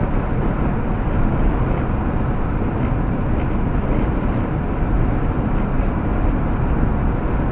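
Steady road noise of a moving car heard from inside the cabin: tyre and engine noise, even and unbroken.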